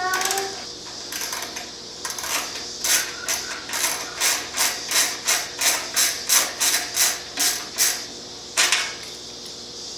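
Socket ratchet wrench clicking as it is swung back and forth, loosening the 12 mm nuts on a motorcycle's stock exhaust: a run of quick, even clicks, about three a second, starting about two seconds in and stopping near the end.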